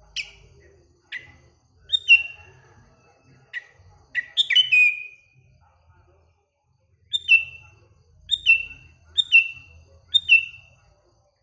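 Sooty-headed bulbul (kutilang) calling: a series of short, sharp chirps, each sliding down in pitch. They come irregularly at first, then after a short pause as four evenly spaced calls about a second apart.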